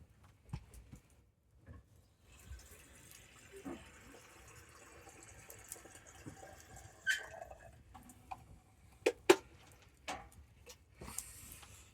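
Wood campfire crackling with scattered sharp pops and a soft hiss of burning, with one loud pop about seven seconds in and two more in quick succession about nine seconds in.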